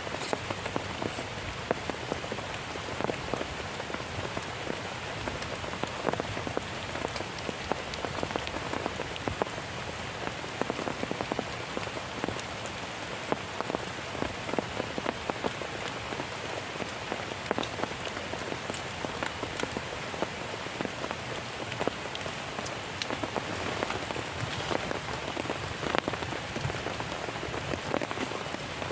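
Heavy rain falling steadily, with many sharp hits of individual drops.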